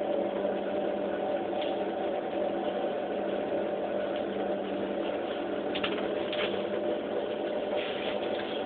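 Aerial tram gondola riding up its cable: a steady mechanical hum with several held tones, unchanging throughout, with a few faint brief sounds about six seconds in.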